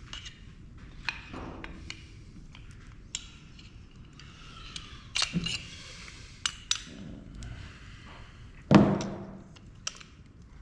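Scattered clicks and knocks of metal and plastic printer parts being handled and set down, with one louder thunk that rings briefly near the end.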